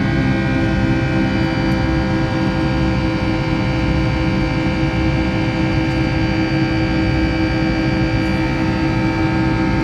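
Pratt & Whitney turbofan engines of a Boeing 757 heard from inside the cabin during the takeoff climb: a loud, steady drone with a low rumble and several whining tones held at one pitch.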